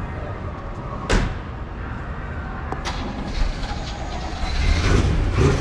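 Steady low vehicle rumble as cars are moved, with a sharp bang about a second in and a lighter click near three seconds; the rumble grows louder near the end.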